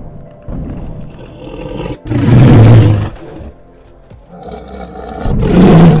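Tyrannosaurus rex roar sound effect, heard twice: a loud roar about two seconds in lasting about a second, and a second one swelling to a peak near the end.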